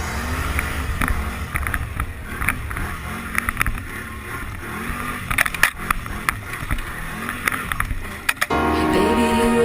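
Can-Am XMR ATV engine running under way, with scattered sharp knocks and clicks over the steady drone. Music cuts in abruptly near the end.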